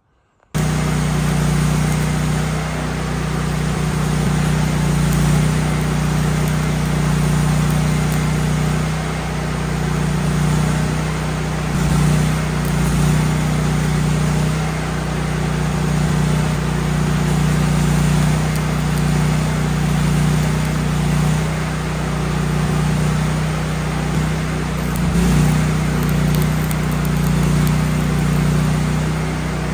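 Miller Bobcat 250 engine-driven welder's gas engine running steadily under load during stick welding, mixed with the steady hiss and crackle of the welding arc. It starts suddenly about half a second in.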